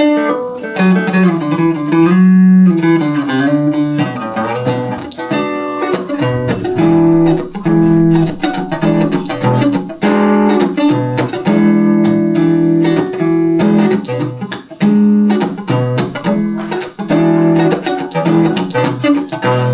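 Electric guitar, a Van Zandt Telecaster through a Roland JC-120 amp, playing an instrumental passage: picked chords and single notes over a repeating bass line.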